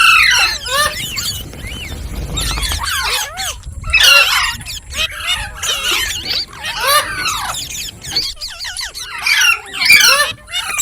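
Indian ringneck parrot calling with rapid, high-pitched chattering squawks, in bursts with short breaks.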